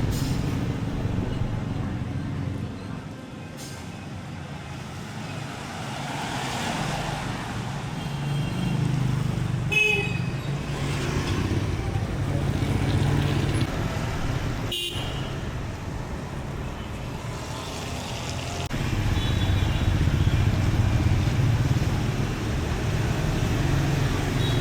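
City street traffic: vehicle engines passing, swelling and fading, with a short horn toot about ten seconds in and a sharp click a few seconds later.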